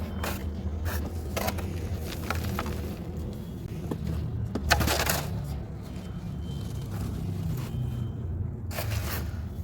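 A dry, crispy material crunching and crumbling as it is crushed, in irregular crackles with one louder crunch about five seconds in, over a steady low hum.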